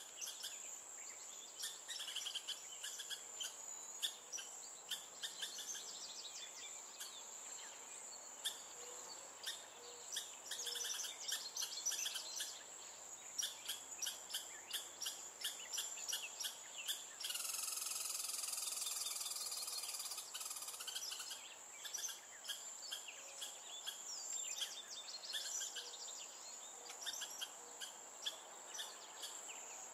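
Outdoor birdsong: many small birds chirping in quick, short high notes, over a steady thin high-pitched buzz like an insect. About seventeen seconds in, a louder drawn-out call with several stacked pitches holds for about four seconds.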